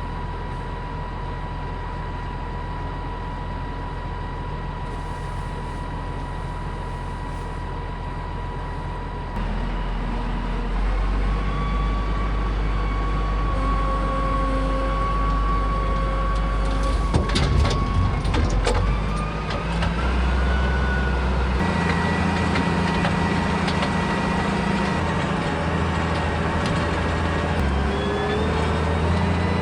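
A vehicle engine running steadily. About nine seconds in it gets louder and deeper, with a thin whine rising and falling over it, and there is a short spell of rattling clicks about two-thirds of the way through.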